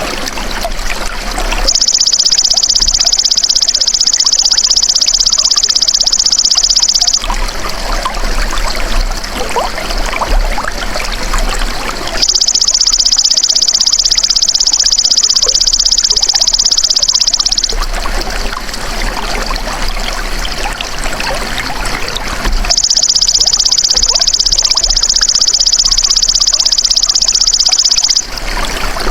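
Belalang emas (golden grasshopper) song: a loud, high, rapid buzzing trill held for about five and a half seconds, heard three times about ten seconds apart. Trickling running water plays steadily underneath.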